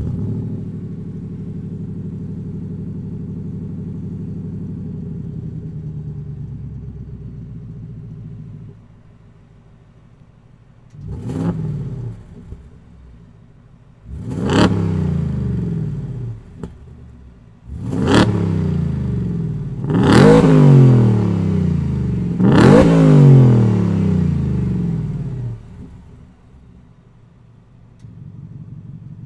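Ford F-150 Raptor R's supercharged 5.2L V8 through an AWE SwitchPath stainless cat-back exhaust with X-pipe, running at a steady fast idle that drops to a lower idle about nine seconds in. It is then revved five times, each rev rising and falling in pitch, the last two longer and the loudest.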